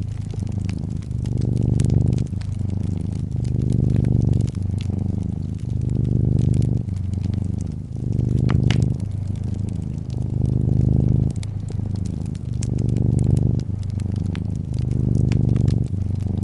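Brown tabby cat purring steadily, the purr swelling and easing about every two seconds with each breath in and out. Scattered soft pops of a crackling fireplace sound over it, one sharper snap about halfway through.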